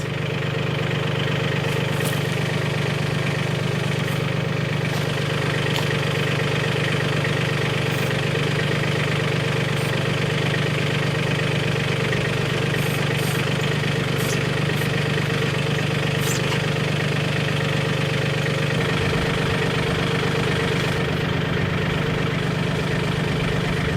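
Mahindra 1626 compact tractor's diesel engine idling steadily, with a few faint clicks over it.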